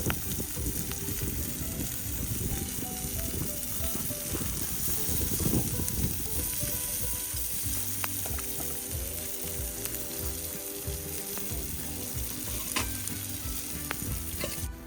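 Wood fire crackling and hissing in a fire pit, with many small pops. Wind rumbles on the microphone underneath.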